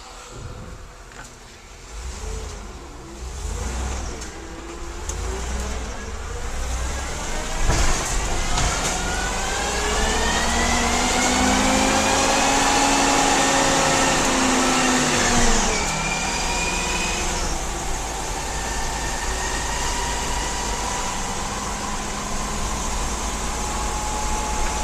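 A 2002 GMC Blue Bird Handybus with its 8.1-litre gas V8 and Allison automatic accelerating on the road: the engine note climbs steadily and grows louder, drops suddenly about two-thirds of the way through at an upshift, then settles into a steady cruise.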